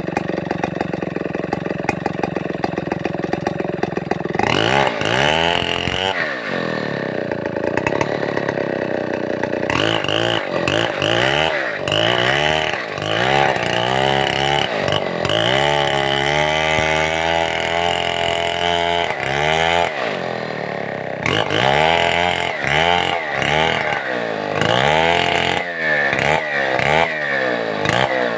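Stihl 070 chainsaw's two-stroke engine running steadily at low revs, then from about four seconds in revved up and down again and again in quick throttle bursts, with one longer stretch held at high revs near the middle.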